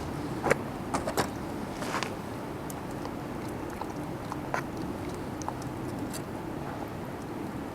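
Wood campfire crackling: sharp, irregular pops and snaps over a steady low background, most of them in the first couple of seconds.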